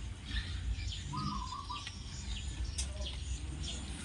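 Young puppies squeaking and whimpering: many short, high, falling squeaks, over a steady low rumble.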